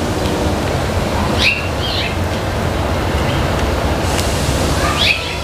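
A steady low rumble of background noise, with a few short bird chirps about a second and a half in and again near the end.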